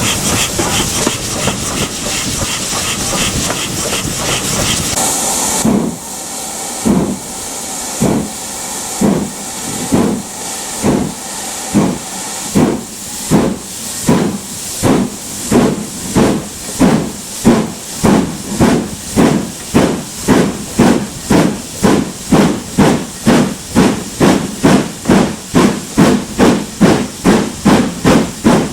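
GWR Manor-class steam locomotive blowing off a loud, steady hiss of steam for about six seconds. Then it starts away, its exhaust beats slow at first and quickening steadily to about two a second as the train gathers speed.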